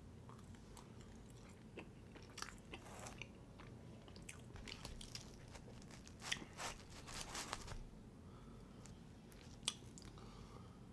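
A person eating at the microphone: bites and chewing of Pizza Hut deep-dish pizza, with soft crackly crunches coming in clusters. The chewing is busiest in the middle, then eases off, with one sharp click near the end.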